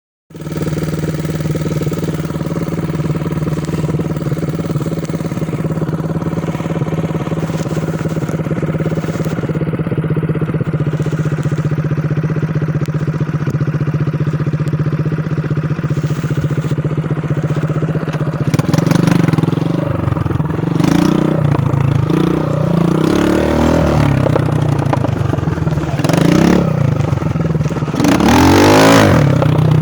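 Dirt bike engine idling steadily, then from about 18 seconds in revving up and down, with a sharp rise in revs near the end.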